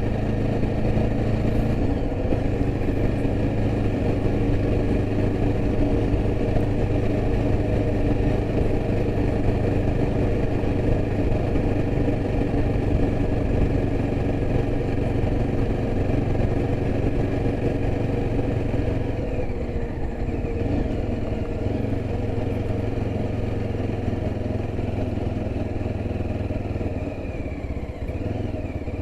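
Yezdi Adventure's single-cylinder engine running steadily while the motorcycle is ridden along, with low road and wind rumble. The engine note eases slightly about two-thirds of the way through.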